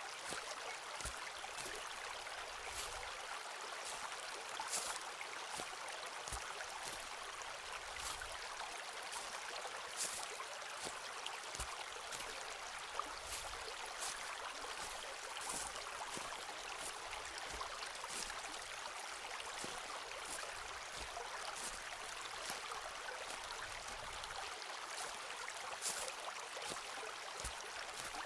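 Footsteps walking through a forest, with sharp crunches and snaps of leaves and twigs underfoot about once a second and soft low thuds of the footfalls. Under them runs a steady rushing noise like a flowing stream.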